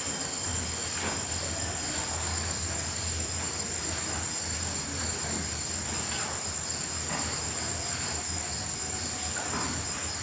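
Crickets chirring in a continuous high-pitched trill that never breaks, with a steady low hum underneath.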